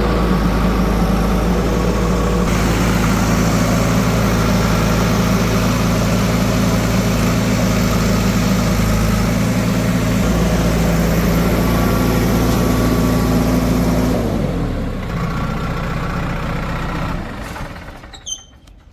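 Heavy diesel engine running steadily. About fourteen seconds in its pitch drops as it slows, and the sound fades away near the end.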